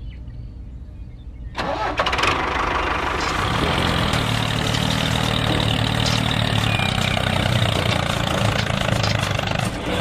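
A small engine starting about a second and a half in, then running steadily at idle.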